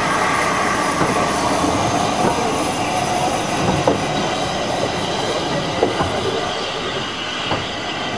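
Steam-hauled heritage train's carriages rolling through the station: steady wheel-on-rail rumble with faint wheel squeal and irregular knocks from the wheels over the rail joints, easing slightly toward the end.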